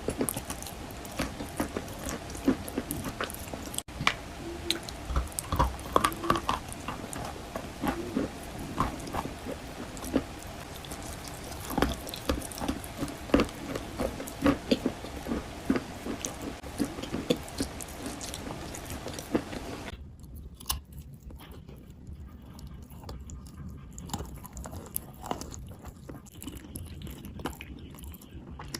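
Wet white chalk being bitten and chewed close up: a run of irregular crunches and clicks. It turns softer and duller from about twenty seconds in.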